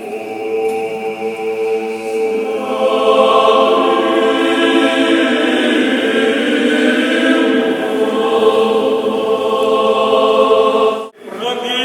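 Choir singing Orthodox liturgical chant a cappella in long held chords, swelling louder about two seconds in and breaking off sharply for a moment near the end before going on.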